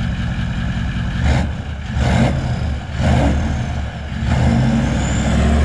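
Toyota four-wheel drive's engine idling and being revved from the exhaust end: three short blips of the throttle, then a longer rev held near the end.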